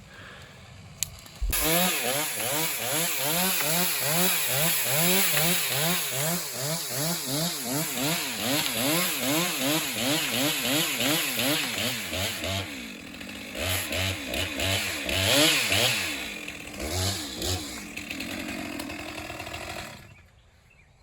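Gasoline chainsaw cutting a branch. It comes in suddenly, its engine speed rising and falling in quick repeated swings, then runs on more unevenly under the changing load and cuts off about a second before the end.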